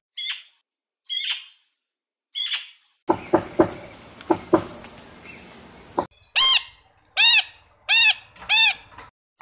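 Bird calls: three short, high, scratchy calls, then about three seconds of calls over a steady high buzz, then four evenly spaced arching calls with clear overtones.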